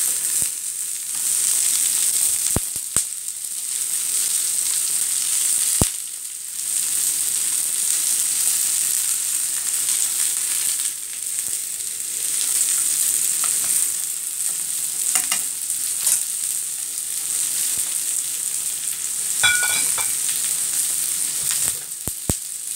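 Crushed boiled potatoes and sliced red onion sizzling steadily in hot oil in a frying pan as the potatoes are turned over. A few sharp clicks and light ringing taps of the utensil against the pan come through the sizzle.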